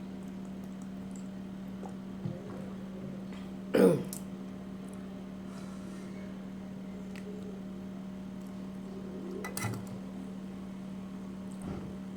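A person eating a rice meal, with one loud short throat sound, like a cough or throat clearing, about four seconds in and a softer one near ten seconds, over a steady low electrical hum.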